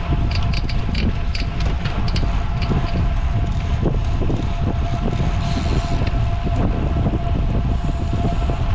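Heavy wind rush buffeting the microphone of a road bicycle riding at speed, with a steady thin whine. Through the first few seconds there is a run of light ticks, about three a second, that fades out.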